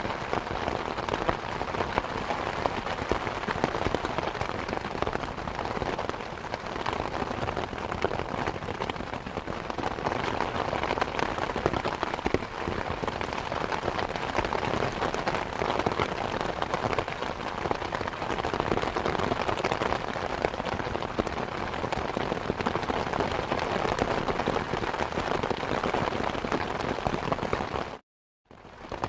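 Steady rain falling, a dense, even patter of drops. Near the end the sound cuts out completely for about half a second, then resumes.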